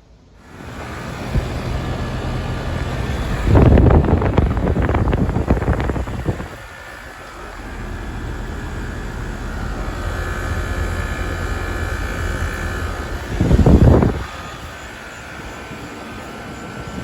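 Outdoor air conditioner or heat pump unit running: a steady hum from the compressor and condenser fan, with faint whining tones above it. The sound sets in about half a second in, and two loud rushes of noise break in, one at about a quarter of the way and a shorter one near the end.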